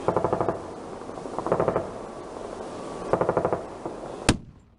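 A .50-calibre M2 heavy machine gun firing short bursts of about half a second each, three bursts roughly a second and a half apart. Near the end there is a single sharp bang, and then the sound cuts off suddenly.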